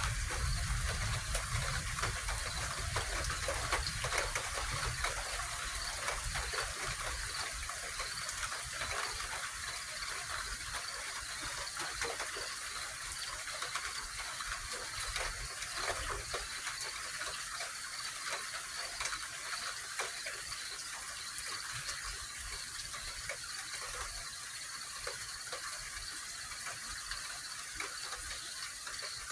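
Steady pre-dawn outdoor ambience: a continuous high hiss with a faint insect trill. A low rumble at the start fades away over the first several seconds.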